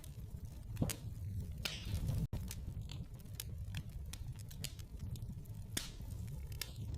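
Wood fire burning in a fireplace: a steady low rumble of flames with irregular sharp crackles and pops from the logs. The sound cuts out for an instant just after two seconds.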